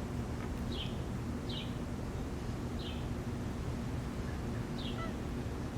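A bird chirping, short high notes that each drop in pitch, four times at uneven gaps of one to two seconds, over a steady low background hum.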